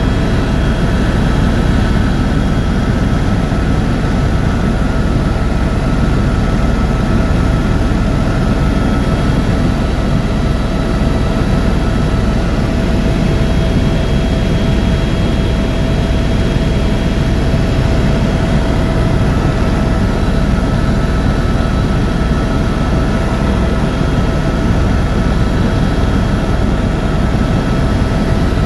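Tour helicopter in flight: its turbine engine and rotor run at a steady, loud level, a dense low rumble with a few constant tones above it and no change in pitch or loudness.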